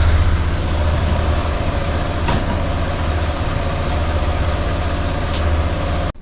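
Small single-cylinder motorcycle engine idling, with a sharp clunk about two seconds in and a lighter click near the end: first gear engaging. The clunk comes from worn rubber cush dampers in the rear wheel hub, which let the sprocket carrier take up its slack all at once.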